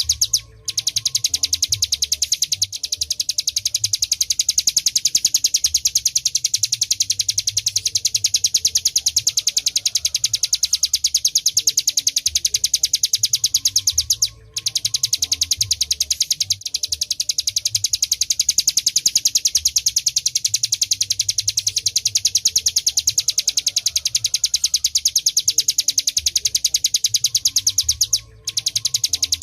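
Ciblek gunung (a prinia) singing a continuous, very rapid high-pitched drilling trill ('ngebren'), broken by three short pauses.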